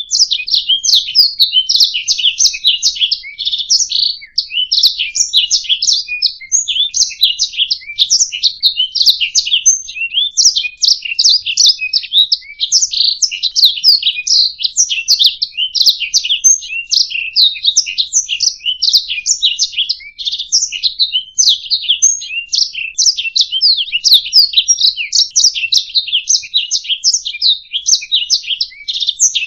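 Domestic canary singing a long, unbroken song of rapid chirps and trills.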